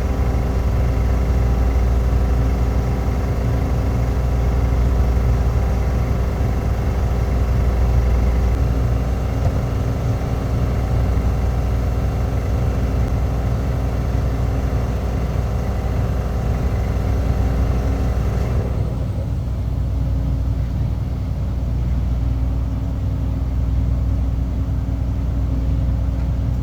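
Large ship's engine and machinery drone, a steady low hum with a layer of steady higher-pitched tones. The higher tones fall away about two-thirds of the way through, leaving the low hum.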